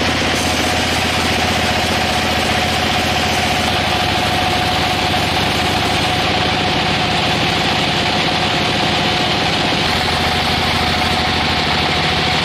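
Sawmill saw machinery running steadily, with an engine-like hum and a steady whine that stay even throughout.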